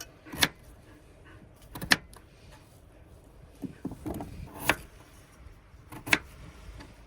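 Knife cutting peeled potatoes into small cubes on a cutting board: about four sharp, separate chops a second or more apart, with some softer knocks in between.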